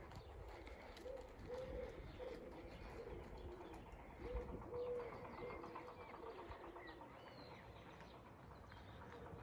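Birds calling: a low call repeated in short phrases, with a few thin higher chirps over it.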